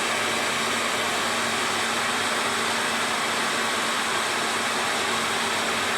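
Hair dryer running steadily, a rush of blowing air over a faint motor hum, used to heat-shrink a plastic bottle onto a part.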